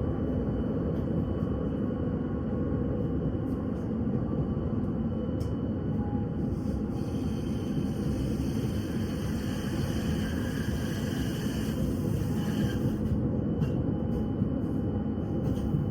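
PKTS 71-931M Vityaz-M low-floor tram running between stops: a steady rumble of wheels on rails, with a faint whine from the drive in the middle.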